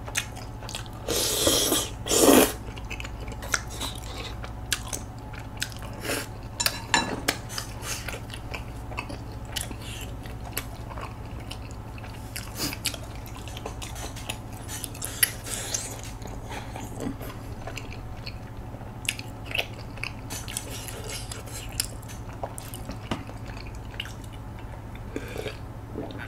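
Close-miked eating: biting and chewing tteokbokki rice cakes, with many small scattered clicks and two louder, noisy stretches about one and two and a half seconds in.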